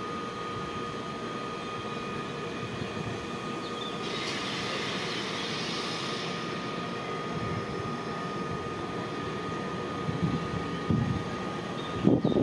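Train running steadily, a continuous rumble with a held whine, with a swell of hiss about four seconds in and a few low thumps near the end.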